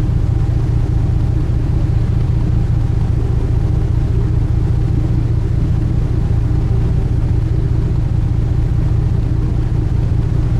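Sightseeing cruise ship's engines running steadily: a constant low hum, heard on board.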